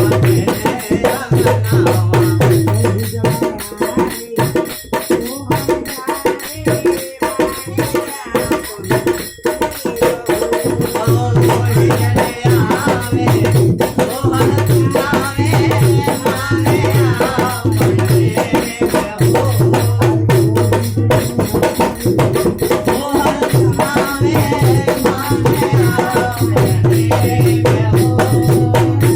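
Dehati Bhojpuri badhai folk song: singing over a hand drum and jingling percussion that keep a steady beat.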